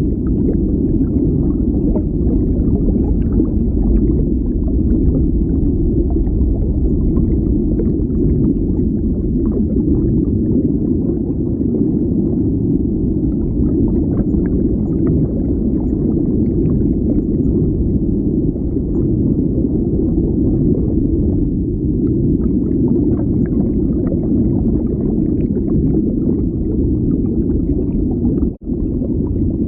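Underwater ambience: a steady low rumble of moving water with faint crackling and ticking above it, cutting out for an instant near the end.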